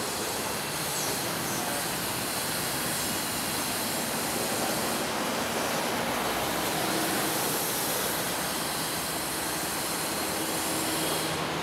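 Type 25Z passenger coaches of a through train rolling past below on arrival at the station: a steady rumble and hiss of wheels on the rails.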